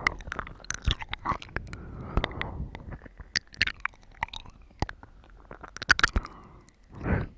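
Close-miked wet chewing of watermelon: many juicy clicks and squelches, busiest in the first three seconds and sparser after. A short puff of breath comes near the end.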